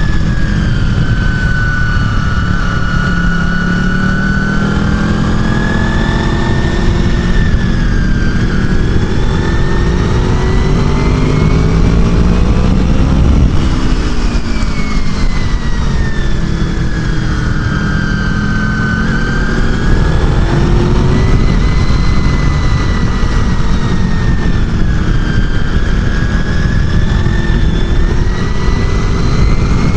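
Honda VFR800 V4 motorcycle engine at track speed, revving up through the gears and dropping sharply on the brakes, then climbing again: a long rise to a peak about halfway through, a fall, another rise and fall, and a climb near the end. Heavy wind rush buffets the bike-mounted microphone throughout.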